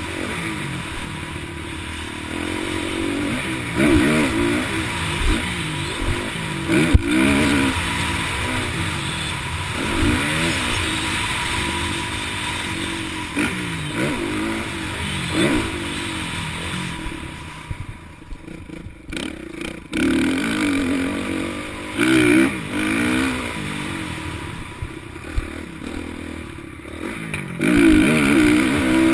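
Motocross motorcycles racing, their engines revving up and down through the gears, growing louder several times as bikes pass close by.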